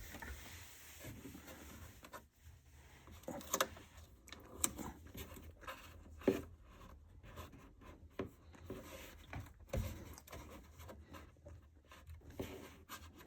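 Intermittent hand work on wood trim: scattered light taps, clicks and rubbing, with a sharper knock now and then.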